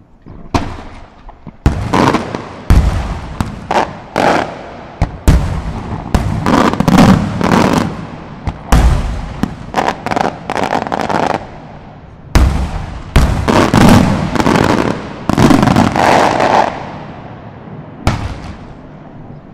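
Aerial firework salutes and shells bursting in rapid volleys, dozens of sharp bangs with rolling echoes, in three dense clusters and a last single bang near the end.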